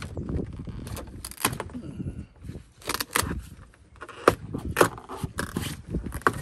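Hand tools clinking and scraping on metal while a bolt in a bind is worked loose, with a handful of sharp clinks spread irregularly through it.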